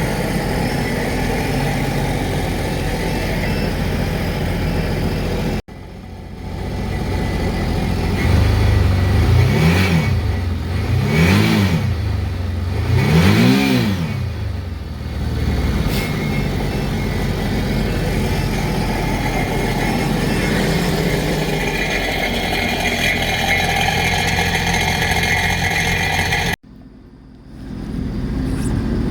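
Sea-Doo GTX iS personal watercraft's three-cylinder four-stroke engine running on a test after a coolant leak repair. It is revved three times in quick succession in the middle, then settles back to a steady run. The sound breaks off abruptly twice.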